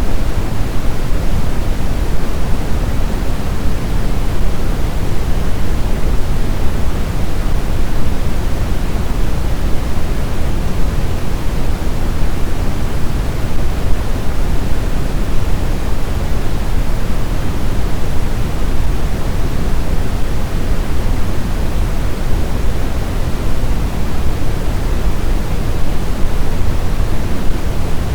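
Blizzard wind ambience: a loud, steady rush of noise, heaviest in the low end, with no distinct gusts or howling tones.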